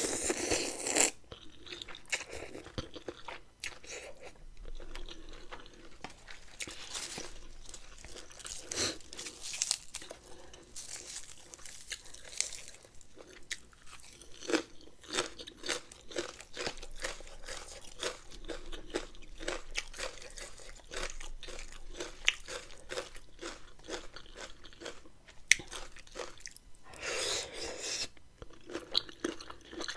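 Close-up chewing and crunching while eating a spicy rice-noodle and shrimp salad with raw vegetables: a steady run of crisp crunches and wet chewing clicks, with louder bursts at the start and near the end.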